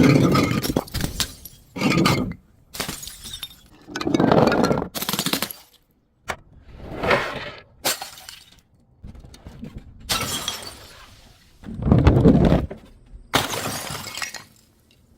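Glass bottles breaking and being crushed: a series of sudden crashes with the clink of shards, spaced a second or two apart. The loudest come at the start and again late on.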